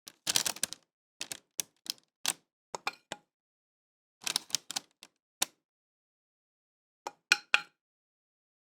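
Irregular short clicks and taps of kitchen things being handled, in a quick cluster at the start, scattered single taps, another cluster after about four seconds, and three sharper clicks near the end.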